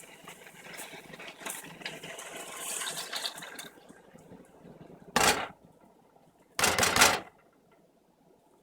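Seasoning water poured from a bowl into a hot pot of browning chicken, liquid splashing and crackling for about three and a half seconds. Then two loud thumps, the second longer, about five and seven seconds in.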